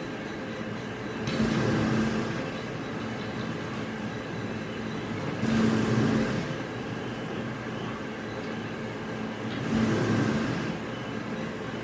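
Industrial machine running with a steady hum, rising in three louder surges, each about a second long and about four seconds apart, as in a repeating work cycle.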